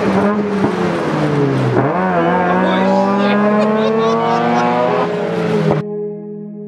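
Mazda RX-8's rotary engine heard from inside the cabin, its pitch dipping briefly about two seconds in and then climbing steadily as the car accelerates. It cuts off abruptly near the end to guitar music.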